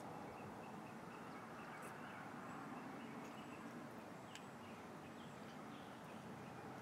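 Quiet outdoor ambience: a steady faint hiss with a few faint bird chirps in the middle.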